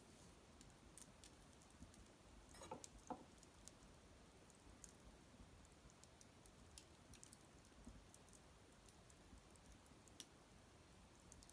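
Small wood fire crackling faintly: sparse ticks and pops, with a brief cluster of louder crackles about three seconds in.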